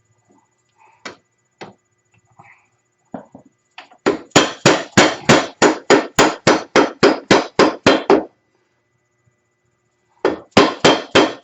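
Hammer blows on the front suspension knuckle and new ball joint of a 2008 Arctic Cat. It starts with a few light taps, then a fast, even run of strikes at about five a second for some four seconds. After a pause of about two seconds, the strikes start again near the end.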